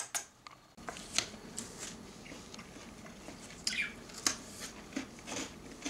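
Pet budgies in their cage making scattered sharp beak clicks and scratchy taps, with a short chirp about four seconds in.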